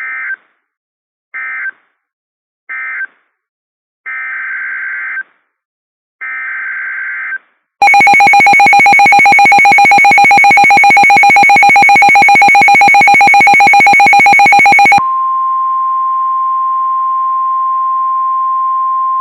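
NOAA Weather Radio alert signalling: a series of short screeching digital SAME data bursts, three brief and two longer. About eight seconds in, a loud, buzzy, rapidly pulsing alarm tone starts and lasts about seven seconds. It gives way to the steady single-pitch weather radio warning alarm tone that announces the next warning.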